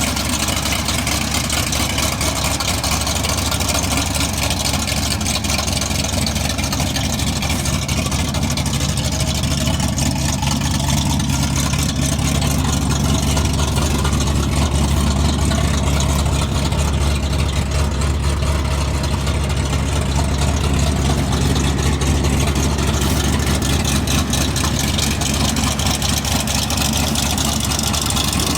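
1979 Dodge pickup's freshly built 360 small-block V8 running steadily at idle. It runs a little louder through the middle stretch, then settles back.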